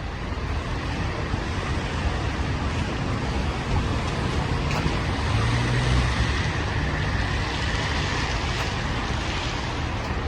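City street traffic: vehicles passing with a steady rush of tyres and engines, a low engine rumble swelling about halfway through.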